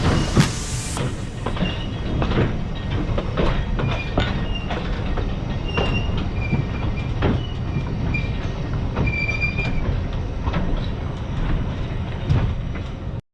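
Talyllyn Railway narrow-gauge train running: a steady rumble with frequent clicks of the wheels on the rail and short, high wheel squeals. The sound cuts off suddenly near the end.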